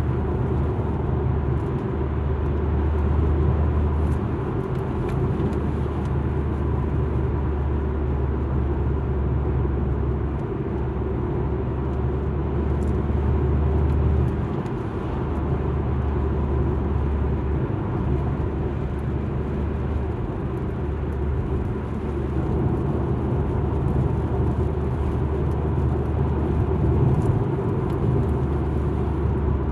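Alfa Romeo MiTo being driven, heard from inside the car: a steady low rumble of engine and tyres on the road, rising and falling a little in level.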